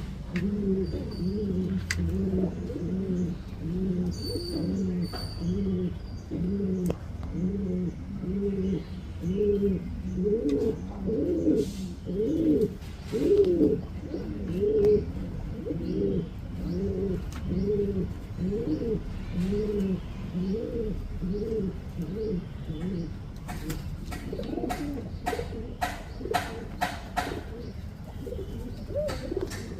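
Domestic fancy pigeons cooing over and over, one low rising-and-falling coo after another, at times overlapping. A run of sharp clicks comes in over the cooing near the end.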